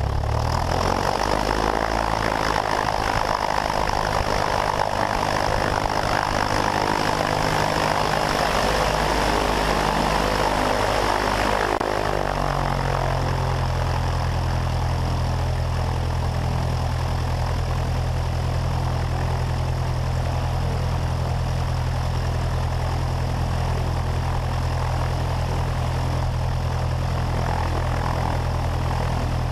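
Cessna 172 Skyhawk's piston engine and propeller running at low taxi power; about 12 seconds in the engine note drops and settles into a steady idle.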